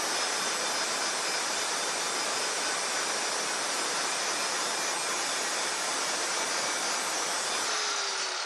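Angle grinder grinding down a spot on the steel angle iron, a steady high whine with grinding noise; near the end it is switched off and its pitch falls as it winds down.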